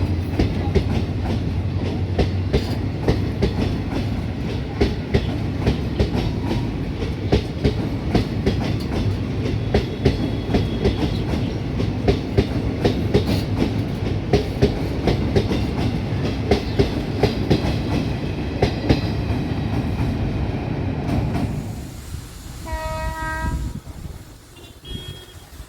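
Passing Indian Railways train, its wheels clattering over the rail joints in a steady run of sharp clicks. Near the end the train sound falls away and a train horn sounds once, about a second long.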